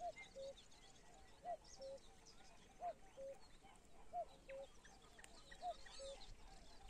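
A bird calling faintly in the distance: a steady two-note call, a higher note then a lower one, repeated about every second and a half. Faint chirps of small songbirds are heard with it.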